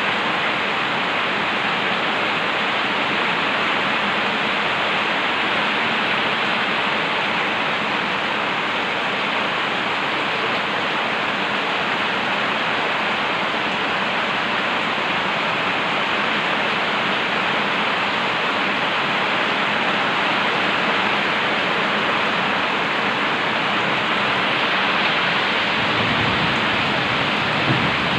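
Heavy rain pouring down steadily, a dense, even hiss of downpour.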